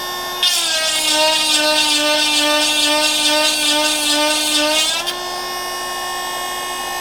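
Oregon 12-volt handheld chain grinder running, its small DC motor wired to spin in reverse so the stone grinds into the tooth. About half a second in, the stone bites into a saw-chain cutter: a loud, rasping grind for about four and a half seconds while the motor's pitch sags under the load. It then pulls off and the motor spins freely again.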